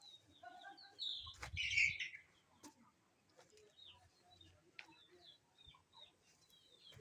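Chickens calling: many short, high chirps throughout, with a louder burst of calls and a low thump about a second and a half in.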